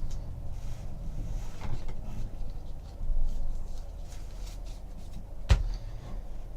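Trading cards being handled and flipped through, with soft rubbing and light taps, one sharp tap about five and a half seconds in, over a low steady hum.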